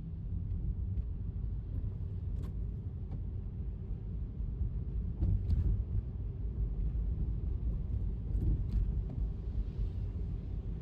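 Steady low rumble of a car driving on a wet road, with a few faint clicks about three seconds apart.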